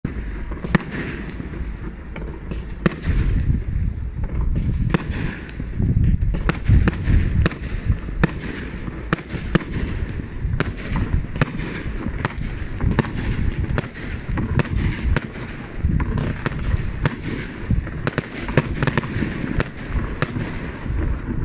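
Aerial fireworks display: a continuous irregular string of sharp bangs, about two a second, over a steady low rumble of shell bursts.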